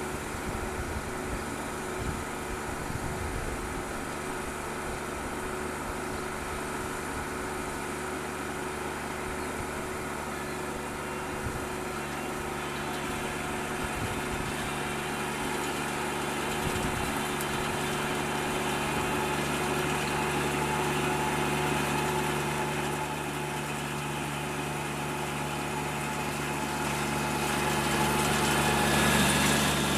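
Kubota DC-35 combine harvester's diesel engine running steadily, growing somewhat louder near the end.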